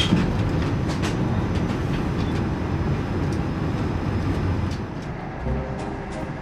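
Steady low rumble of a moving vehicle heard from inside, with a few sharp knocks. A faint steady tone comes in near the end.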